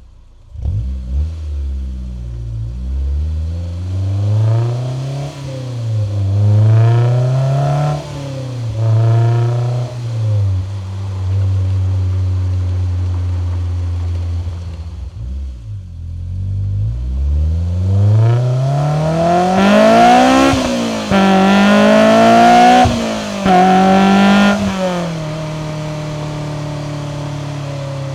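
Honda S2000's four-cylinder engine, breathing through a test pipe in place of the catalytic converter and an HKS 75mm catback exhaust, accelerating through the gears. The pitch climbs and drops at each upshift, holds steady at a cruise in the middle, then climbs through another hard pull with quick shifts before settling to a steady cruise near the end.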